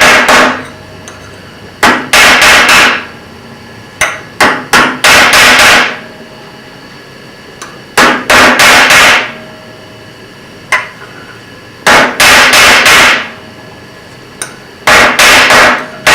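Hammer beating heated steel bushings flat on an anvil, in five bursts of rapid ringing blows with short pauses between them.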